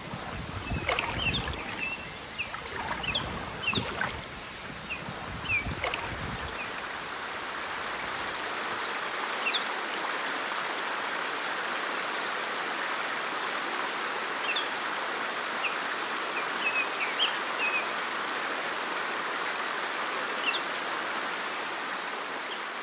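Mountain stream rushing steadily over rocks, with short bird chirps now and then. Low rumbling and a few knocks sound in the first six seconds or so.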